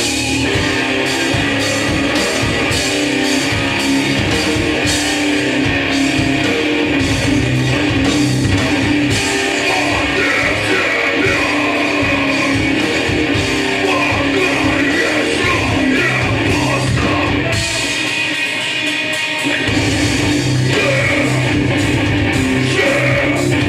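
Hardcore punk band playing live: distorted electric guitar and drum kit, with vocals. About three quarters of the way through, the bass and drums drop out for a moment before the full band comes back in.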